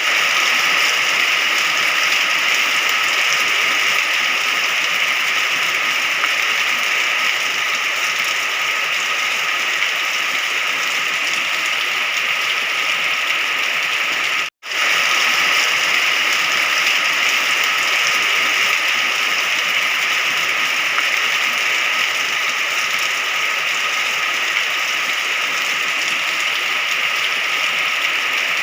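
Steady, even rain, a dense hiss of drops with most of its energy in the upper-middle range. About halfway through it cuts out to silence for a split second, then resumes unchanged.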